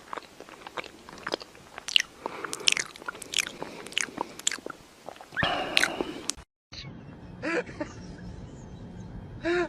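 Crunchy chewing, with many sharp irregular crunches. About six and a half seconds in it cuts off and a steady low hum follows, with two short pitched squeaks or calls.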